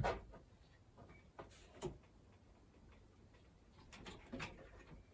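A few faint, sharp clicks and light taps of small hard parts being handled, two about one and a half seconds in and a few more around four seconds in.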